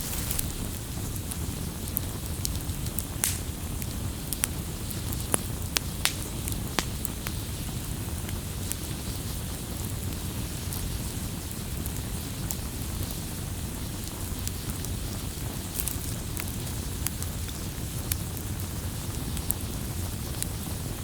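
Wood fire burning in a campfire: a steady low rush of flame with scattered sharp crackles and pops, the loudest cluster of pops between about three and seven seconds in.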